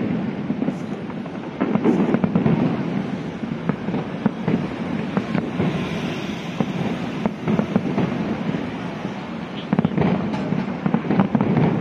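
Fireworks display: a continuous run of bangs and crackling with a low rumble underneath, growing denser and louder about two seconds in and again near the end.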